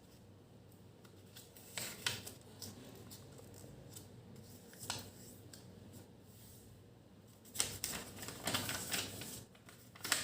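A square of origami paper being handled, folded and creased by hand: crisp rustles and crackles, a couple about two seconds in, one near the middle, and a busier run of them near the end.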